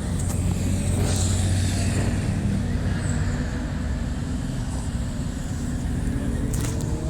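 A car engine running with a steady low hum, and a short click near the end.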